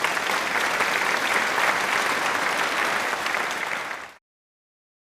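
Crowd applauding: dense, steady clapping that cuts off suddenly about four seconds in.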